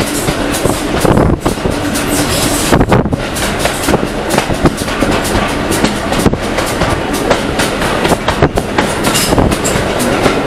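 Train running along the track, heard from aboard: a steady rumble with the wheels clicking irregularly over the rail joints.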